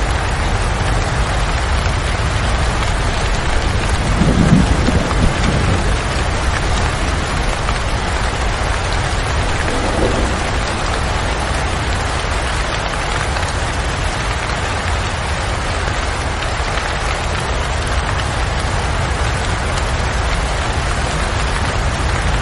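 Steady heavy rain falling, with a brief low rumble about four seconds in and a fainter one near ten seconds.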